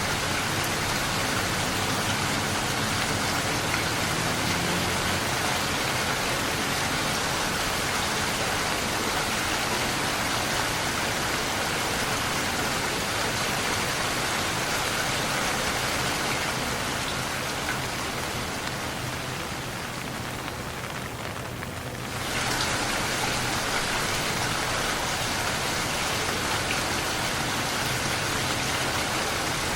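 Steady rain falling, an even hiss of drops. About two-thirds of the way in, the higher part of the sound fades and the rain turns softer, then comes back at full strength all at once.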